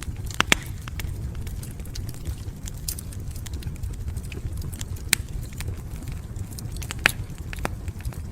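Wood fire burning in a fireplace, crackling with irregular sharp pops over a low steady rumble; the loudest pops come about half a second in, about five seconds in and about seven seconds in.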